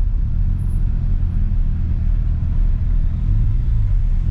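Mazda RX-7 FD's 13B twin-rotor rotary engine running at low revs while driving in slow traffic, heard from inside the cabin. Its note rises and falls a little twice.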